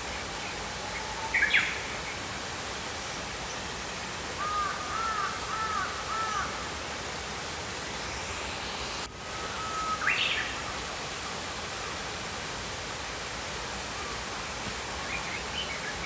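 A stream flowing steadily under small birds calling: a short call about a second and a half in, a quick run of about five arched notes a few seconds later, another call around ten seconds, and faint calls near the end.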